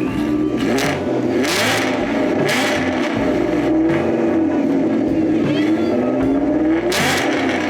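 Supercharged 5.2-litre V8 of a ProCharger-equipped Ford Mustang Shelby GT350 being revved while parked, its pitch rising and falling through repeated blips. Three short hisses cut through, near the start, a second later and near the end.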